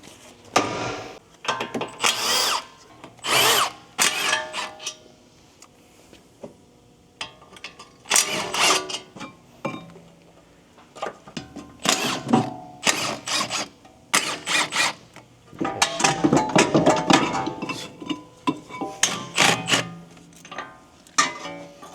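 A cordless power tool running in short repeated bursts, used to remove fasteners during a front brake and suspension teardown.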